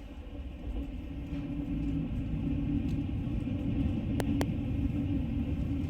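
Low, steady vehicle rumble that grows louder over the first two seconds, with two sharp clicks about four seconds in.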